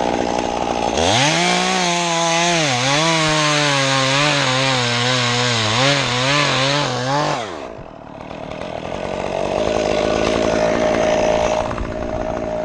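Two-stroke chainsaw cutting a limb at full throttle for about six seconds, its pitch dipping several times as the chain bogs in the wood, then letting off. A chainsaw keeps running with a steadier, fainter whine near the end.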